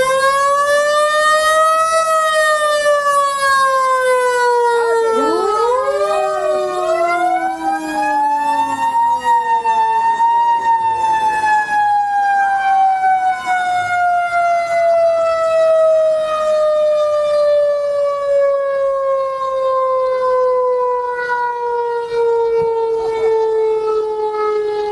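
A siren wailing: one tone rises and then falls slowly, and a second wail climbs about five seconds in and then sinks gradually through the rest of the time, the two overlapping briefly.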